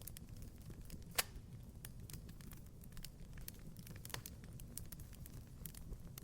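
Wood fire crackling in a fireplace: irregular small snaps over a low steady rumble, with one loud pop about a second in and another weaker pop about four seconds in.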